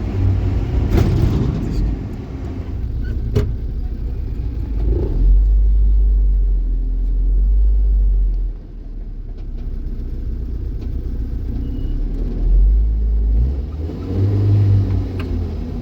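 Car on the move: a low, shifting engine and road rumble, with a couple of sharp knocks about one and three and a half seconds in.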